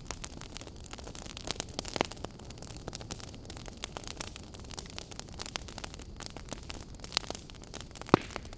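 Wood fire crackling over a low steady hiss, with frequent small snaps and a few sharper pops, the loudest near the end.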